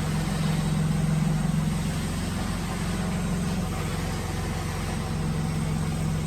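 Drilling machine's electric motor running with a steady hum, a little louder in the first couple of seconds.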